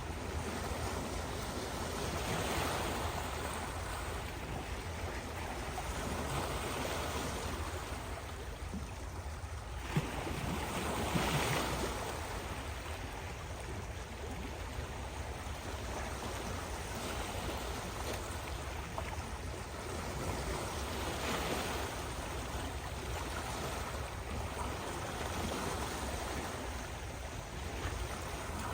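Ocean waves breaking and washing in, a steady rush that swells and fades every few seconds, with a low rumble underneath. One sharp click about ten seconds in.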